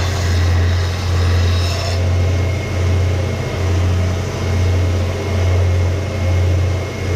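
Electric power tool motor running with a loud, steady low hum that swells and fades about once a second. A harsh grinding hiss from abrasive work on the steel axe head stops about two seconds in while the motor keeps running.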